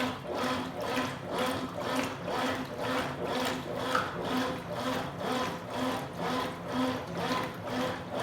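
Consul Super Cargo 8 kg top-loading washing machine agitating a load of towels: the motor hums and the water sloshes in an even pulse, a little under two strokes a second, as the agitator reverses back and forth.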